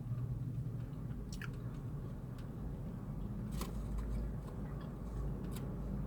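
A person eating chicken wings close to the microphone, chewing with a few sharp wet mouth clicks, over a steady low hum.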